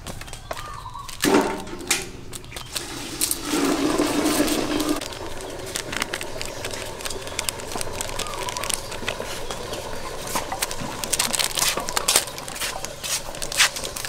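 Birds calling, with a louder call about a second in and a longer one around four seconds in, over light clicks and crinkles as spice powder is poured from a small plastic packet into a bowl.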